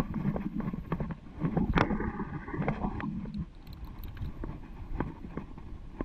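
Mountain bike rattling and knocking as it rides over rough rock, with tyre and wind noise underneath. A hard jolt comes about two seconds in, followed by a short steady squeal.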